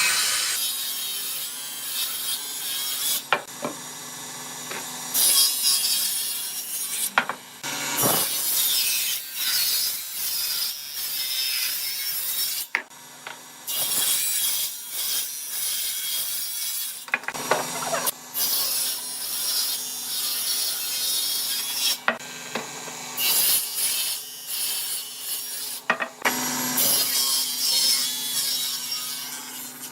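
Tools working wood: scraping, rasping noise of sawing or sanding in short stretches that start and stop abruptly, with occasional sharp clicks and knocks.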